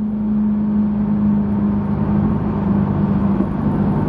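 A car being driven: a steady engine drone with one strong low tone, over road rumble.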